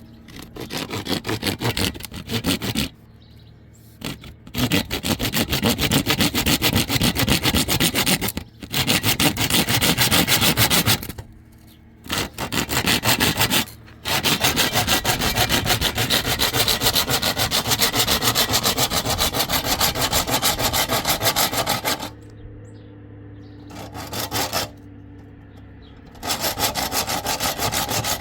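Rapid sawing or rasping strokes through a hard material, in several runs separated by short pauses, the longest lasting about eight seconds.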